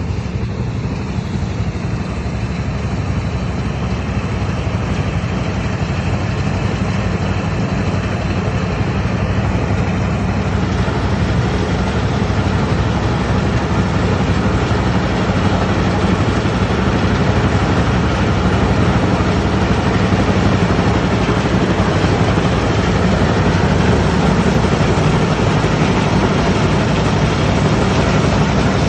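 A motor engine running steadily at a constant speed, with a low hum and a steady noise over it.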